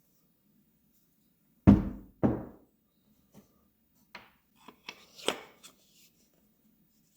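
Two heavy knocks about half a second apart, each dying away quickly, then a few lighter clicks and taps.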